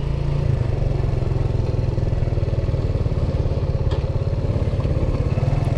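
Suzuki GN 125 single-cylinder four-stroke engine running steadily while the motorcycle is ridden along a town street, heard close from a handlebar-mounted camera, with a quick, even exhaust pulse.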